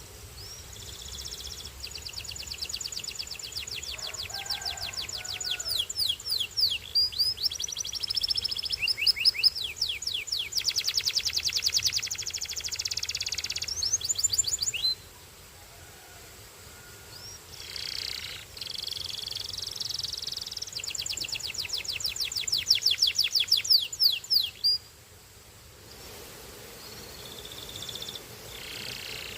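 Canary singing in long, fast trills of rapidly repeated high, sweeping notes, with short pauses about halfway through and again near the end.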